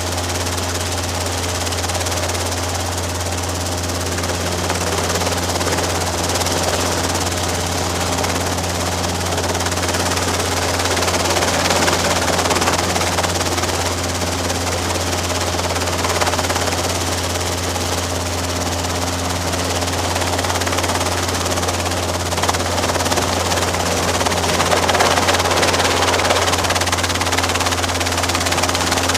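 Robinson R22 helicopter running steadily: a constant low rotor and engine drone with a steady hiss above it.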